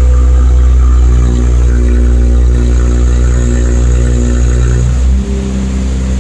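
Infiniti Q50's engine running while parked, heard through a Rev9 catback midsection and PLM Helmholtz axle-back exhaust with no resonators, giving a deeper rumble. It runs steadily at slightly raised revs, then drops back to idle about five seconds in.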